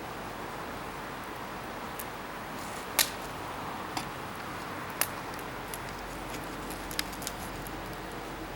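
Scrap-wood bonfire burning with a steady rushing hiss, broken by a handful of sharp pops from the burning wood, the loudest about three seconds in.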